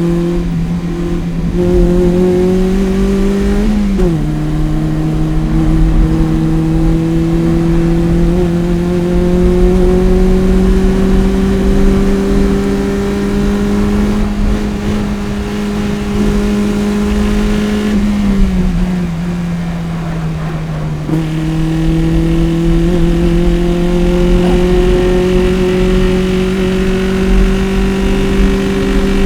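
Toyota MR-S's 1ZZ 1.8-litre four-cylinder engine, breathing through a PPE header and Fujitsubo exhaust, running hard under load. Its pitch climbs slowly, drops sharply with a gear change about four seconds in, falls again from about eighteen to twenty-one seconds in, then climbs again.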